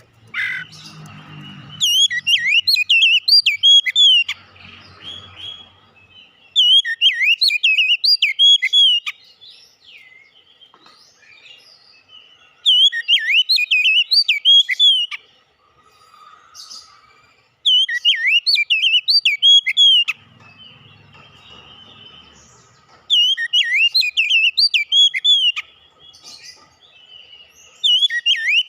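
Oriental magpie-robin singing: loud bursts of fast, varied whistled notes, each lasting two to three seconds, repeated six times with short pauses between them.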